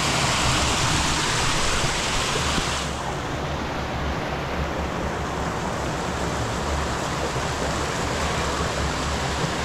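River water rushing steadily over stones, a loud continuous flow that turns a little duller after about three seconds.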